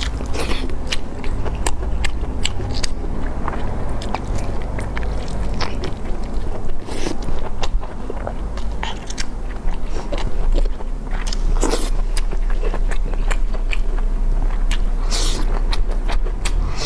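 Close-miked biting and chewing of sauce-glazed braised intestines: many short wet mouth clicks and smacks in quick succession, over a steady low hum.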